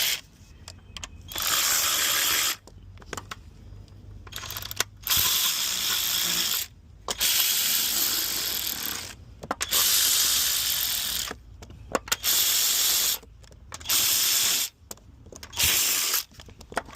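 Ratchet clicking in about nine separate bursts of one to two seconds each while intake manifold bolts are run down.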